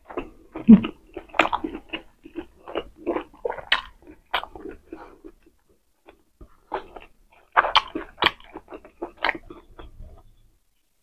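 Close-miked mouth sounds of someone chewing a mouthful of pork steak and rice: a quick run of short clicks and smacks that pauses briefly in the middle, then resumes.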